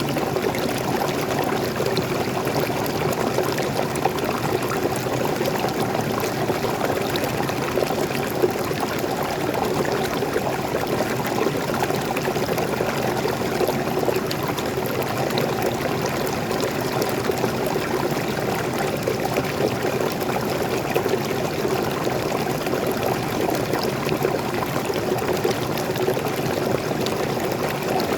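Small waterfall: fresh water pouring and splashing steadily, a continuous even rush of flowing water with faint scattered drips.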